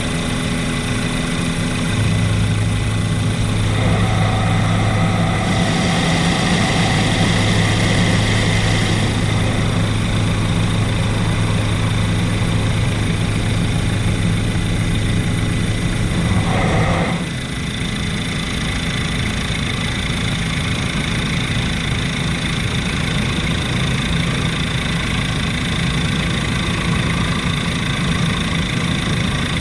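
Helicopter running in flight, heard as a steady engine and rotor drone with a steady high whine; a low hum in the drone drops out about two-thirds of the way through.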